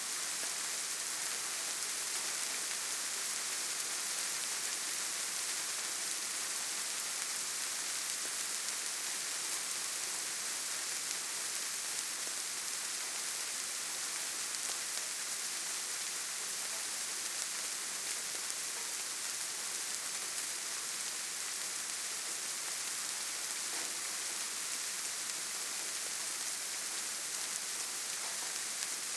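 Steady rain falling: an even, unbroken hiss of rainfall with no thunder or distinct drops standing out.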